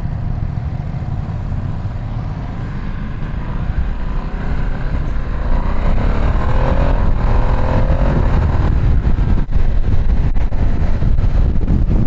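Ducati Streetfighter V2 S L-twin engine pulling under acceleration, its note rising from about six seconds in, with heavy wind rush over the microphone.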